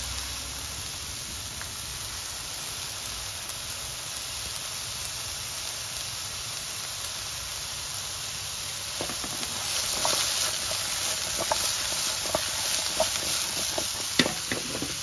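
Opo squash pieces frying in oil in a hot pan over high heat, browning: a steady sizzle that grows louder from about nine seconds in, with crackling pops and one sharp click near the end.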